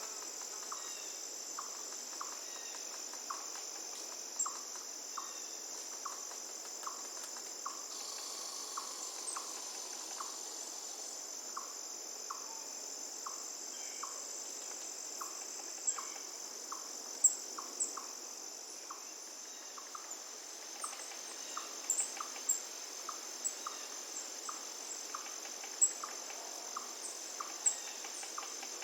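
Steady high-pitched insect chorus, with a short call repeating about twice a second and scattered sharp chirps, over a faint hiss of running river water.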